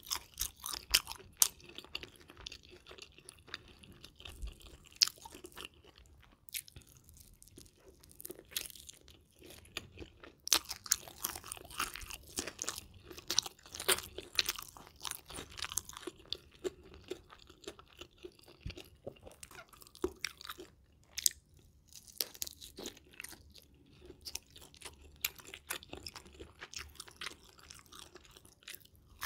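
Close-miked crunching and chewing of fried chicken in red sauce: many sharp crunches one after another, with a few short pauses.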